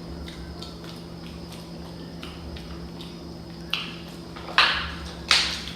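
Close-miked eating of a seafood boil: small wet mouth clicks, then three louder, short, noisy sounds a little under a second apart near the end. A steady low hum runs underneath.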